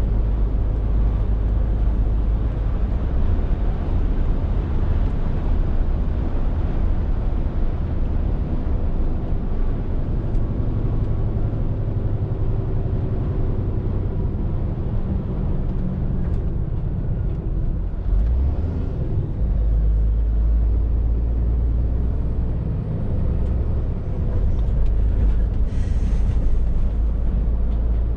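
Scania R450 lorry's 13-litre straight-six diesel running under way, a steady low drone with road noise. The engine note shifts about two-thirds of the way through, and a brief hiss comes near the end.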